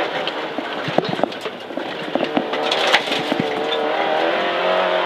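Peugeot 106 XSi rally car's 1.4-litre four-cylinder engine heard from inside the cabin, easing off through a right-hand bend and then pulling again, its pitch rising near the end. Road noise and a few sharp knocks run under the engine.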